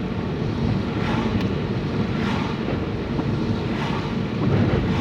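Car driving on a rain-soaked road, heard from inside the cabin: a steady low rumble of engine and tyres with the noise of water spray from the wheels.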